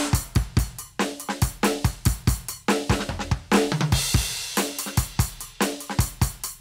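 Roland TD-17KVX electronic drum kit played in a steady groove, its module's kick, snare and hi-hat sounds. A short fill runs into a crash cymbal about four seconds in.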